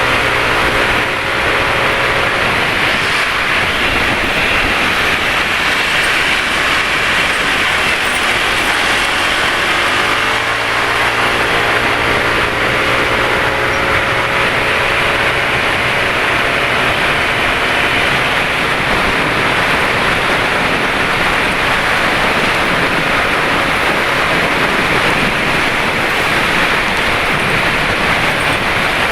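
Motorcycle engines running in road traffic, heard over steady wind and road noise from riding. An engine note is heard near the start, and another rises in pitch as it accelerates from about ten seconds in.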